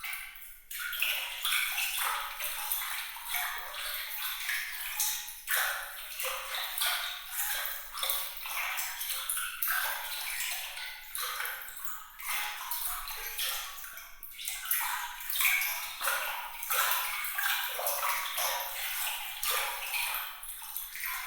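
Water trickling and splashing in a dense, continuous patter of small bright droplets, high and tinkling with almost no low rumble.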